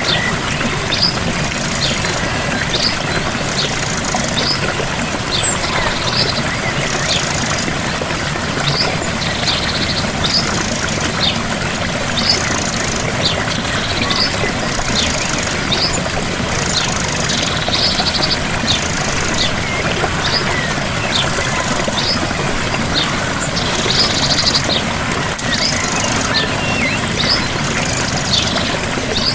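Steady rush of a gentle waterfall, with a bird chirping over it about once a second and giving a few short trills.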